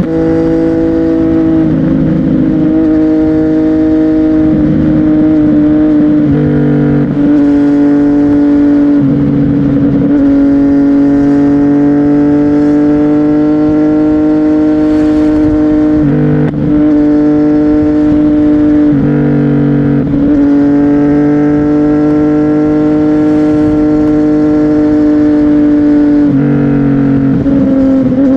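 CFMOTO 675NK's inline-three engine breathing through a titanium aftermarket exhaust, running at a steady engine speed under way. Every few seconds the note briefly breaks and changes pitch as the throttle comes off and back on.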